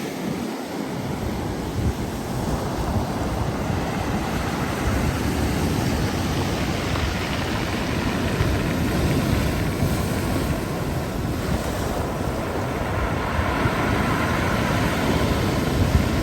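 Black Sea surf washing onto the shore in slow swells, with wind rumbling on the microphone.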